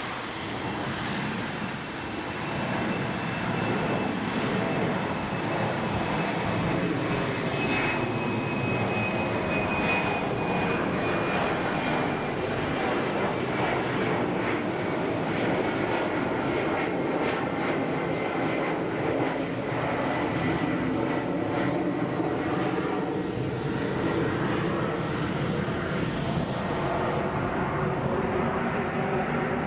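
Embraer 190 jet airliner going past, its twin turbofan engines running with a dense roar and a high whine that slowly falls in pitch. The sound grows louder over the first few seconds, then holds steady.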